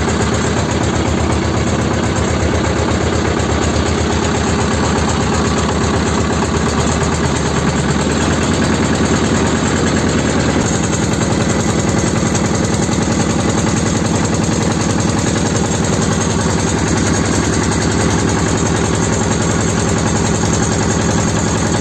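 Engine of a small wooden river motorboat (pompong) running steadily while under way, its note shifting a little about halfway through.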